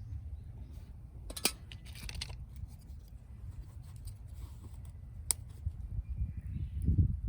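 Wood fire of dry firewood crackling, with two sharp pops about a second and a half in and again a little past five seconds, over a low steady rumble.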